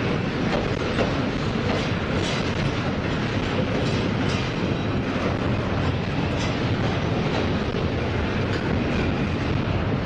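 Double-stack intermodal freight train's well cars rolling past at steady speed: a continuous rumble of steel wheels on rail, with irregular clicks as the wheels pass over the track.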